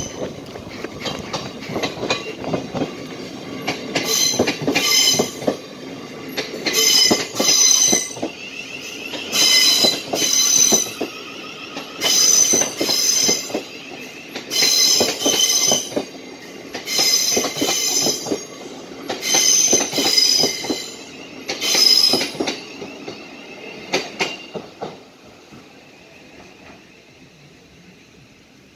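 A South Western Railway electric passenger train running past over a level crossing, wheels clattering over the rail joints. Short high-pitched wheel squeals come mostly in pairs about every two to three seconds. The train sound dies away about 25 seconds in.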